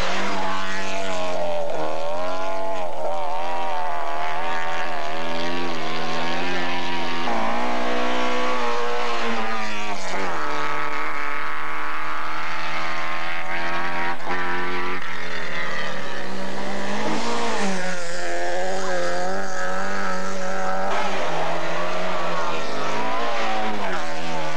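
Rally car engine revving hard, its pitch climbing and falling again and again as the driver works the throttle and gears, with a sharp drop about ten seconds in.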